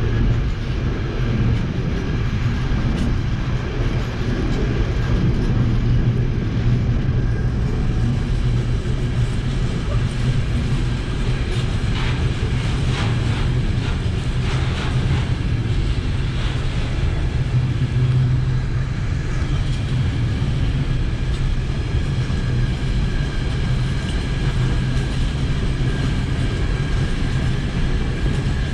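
Container freight train rolling past: a steady rumble of wagon wheels on the rails, with a few sharper clicks about halfway through.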